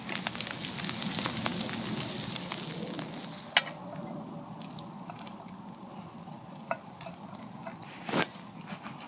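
Steak laid straight onto hot campfire coals, sizzling loudly for about three and a half seconds, then settling to a quieter sizzle. A sharp click comes as the loud sizzle ends, and a soft knock comes near the end.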